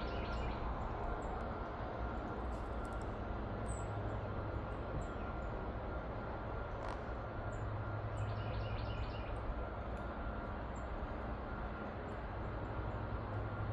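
Steady background hiss with a low hum, and faint short chirps from pet parrots scattered through it, including a quick run of chirps about two-thirds of the way through.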